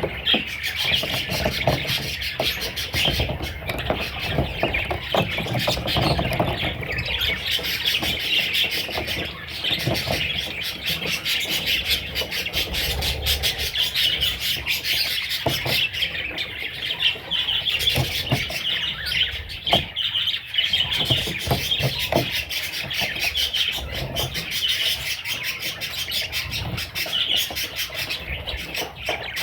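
Budgerigar chicks calling: a continuous, busy chatter of high chirps and squeaks.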